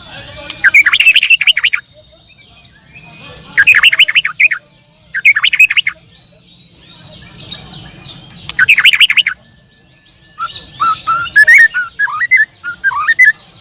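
Contest songbirds singing loudly in repeated bursts of fast, rattling trills, then a run of varied whistled notes about eleven seconds in.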